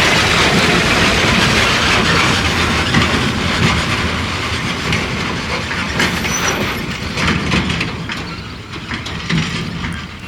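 Heavily loaded diesel sand tipper truck driving past, its engine running and its body rattling and clanking over the rough road. The sound grows fainter over the last few seconds as the truck moves away.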